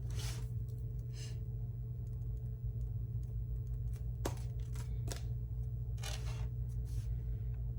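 A few short rustles and sharp clicks of tarot cards being handled, over a steady low hum.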